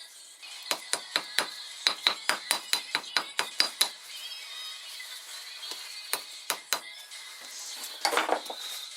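Metal striking metal: a quick run of about fifteen sharp taps, four or five a second, then a few scattered taps and a short rattle near the end.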